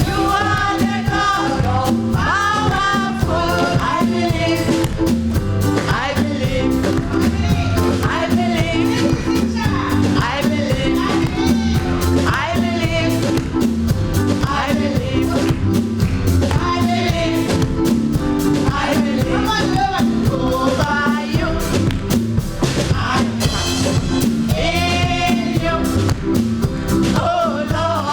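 Gospel singers performing live with a band: voices singing over a steady drum beat and bass.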